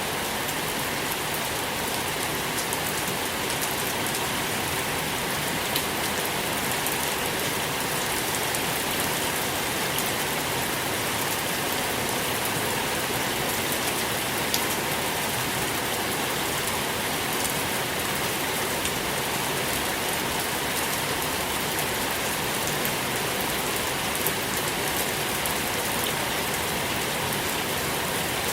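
Steady rain falling, a constant even hiss with many small drop ticks scattered through it.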